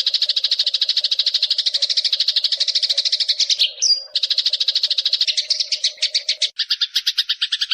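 A very rapid, unbroken chirping trill played as songbird-training (masteran) audio. A little under four seconds in, the trill breaks for one quick rising chirp. A low steady hum runs under it and stops about two-thirds of the way through.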